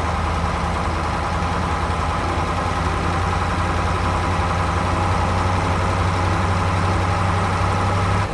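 Heavy machine's engine running steadily, a low hum with a buzzing band above it; it cuts off abruptly near the end.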